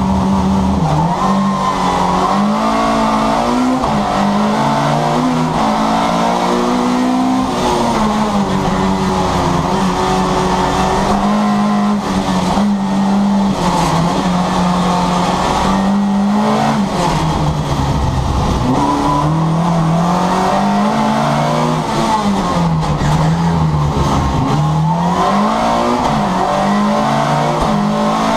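Rally car's engine heard from inside its stripped, roll-caged cabin, driven hard: the pitch climbs and drops back again and again as it revs out and shifts gear.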